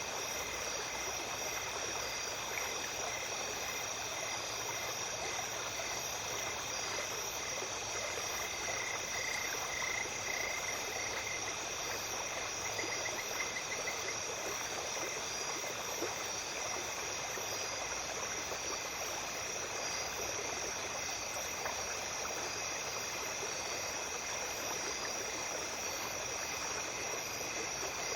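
Small stream running steadily, with a constant chorus of night insects calling over it. A pulsing trill joins in for a few seconds around the middle.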